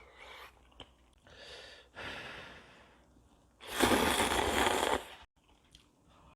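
Ramen being eaten close to the microphone: several short airy slurps, then one long, loud slurp of noodles lasting over a second, about four seconds in.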